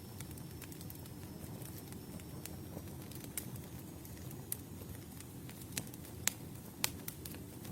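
Campfire burning: a steady low rush of flames with scattered sharp crackles and pops of the burning wood, a few louder pops in the second half.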